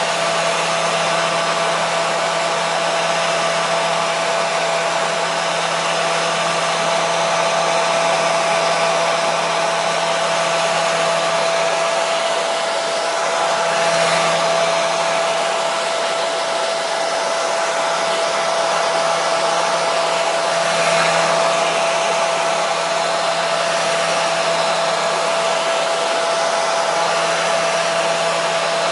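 Hair dryer running continuously: a steady rushing of air with a constant motor hum underneath.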